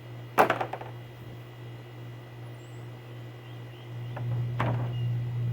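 A sharp knock with a quick rattling bounce about half a second in, and a lighter knock near the end, over a steady low hum that grows louder about four seconds in: parts being handled during table assembly.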